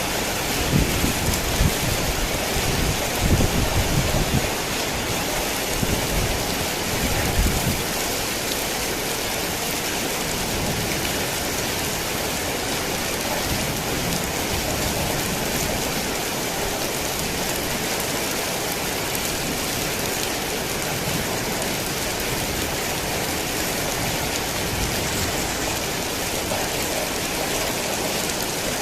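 Heavy rain falling steadily in a dense, even hiss. A low rumble of thunder runs through the first several seconds and dies away.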